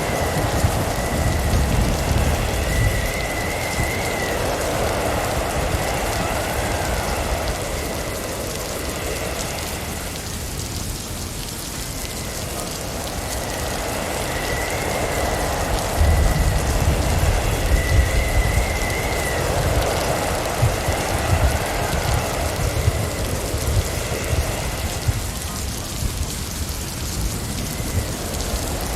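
Blizzard ambience: a steady hiss of wind-driven snow with low, gusty rumbles that swell near the start and again a little past halfway, over a faint thin whistle.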